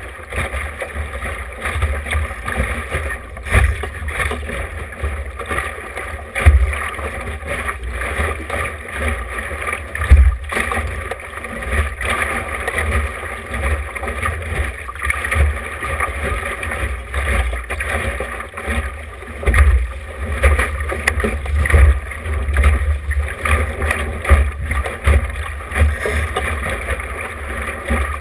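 Small sailboat under way: water rushing and splashing along the hull, with wind buffeting the action camera's microphone in gusts. There are a few sharp knocks, about 3.5, 6.5 and 10 seconds in.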